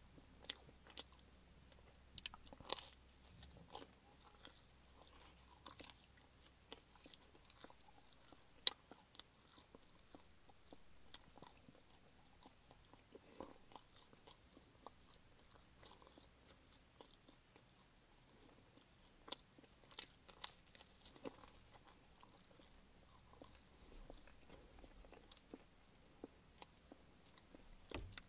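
Faint close-up chewing and biting of pizza: soft, irregular mouth clicks and smacks, with a sharper click about a third of the way in and a cluster around two-thirds through.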